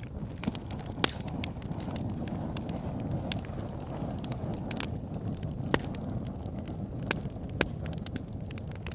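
Wood fire burning in a fireplace: a steady low rumble of flames with irregular crackles and sharp pops of burning logs, the loudest pops about a second in and around six to eight seconds in.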